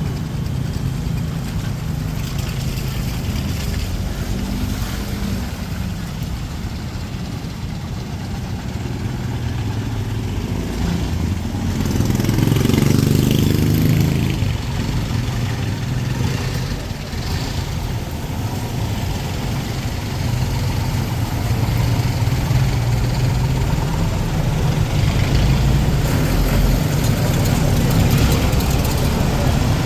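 Street traffic: vehicle engines running and passing, with one louder vehicle going by about twelve seconds in.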